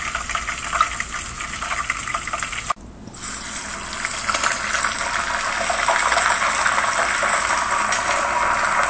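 Steak pan-frying in a skillet, sizzling with many small crackles; after a brief break about three seconds in, french fries deep-frying in hot oil with a denser, louder, steady sizzle.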